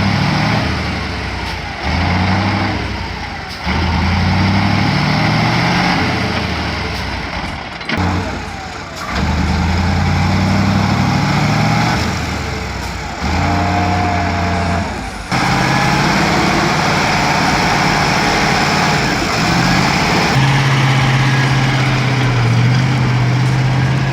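Heavy truck diesel engines running and labouring, heard across a series of short clips that change abruptly every few seconds.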